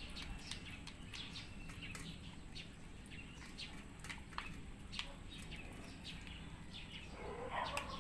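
Cats eating wet food mixed with dry kibble: irregular, short crunching clicks, with a denser burst of sound about seven seconds in.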